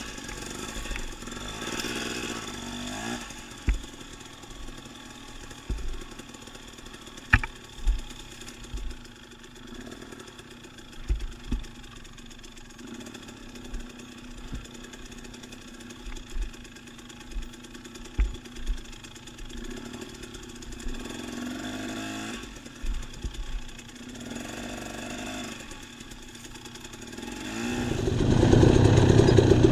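Dirt bike engine running at low revs, with scattered low thumps, then revving up loudly about 28 seconds in.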